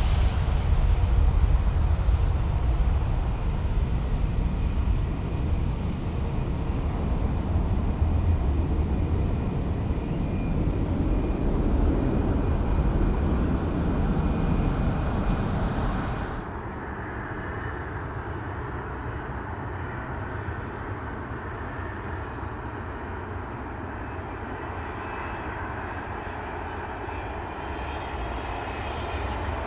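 Jet airliner engines: a loud, low rumble for about the first half, then an abrupt drop to a quieter, steadier jet noise with a faint high whine.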